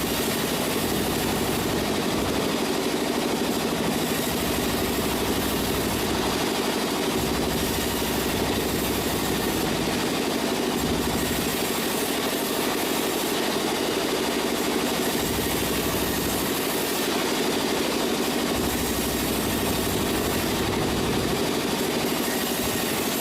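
Sawmill machinery running steadily with an engine-like hum and a low rumble that swells and fades every second or two.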